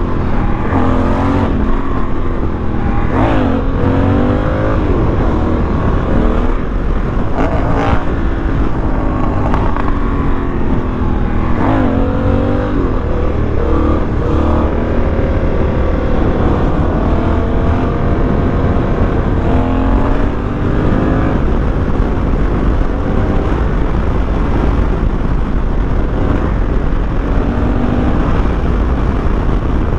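Honda Africa Twin 1100's parallel-twin engine pulling through the gears, rising in pitch and dropping back several times as it accelerates and shifts, over steady wind rush on the helmet microphone.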